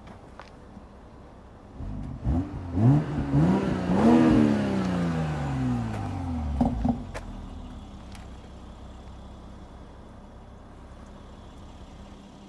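BMW 8 Series convertible engine idling, revved in several quick blips and one longer rev that falls slowly back, then settling to idle again. It runs while its right-hand exhaust puts out heavy smoke, which the owner finds excessive and BMW put down to the cold weather.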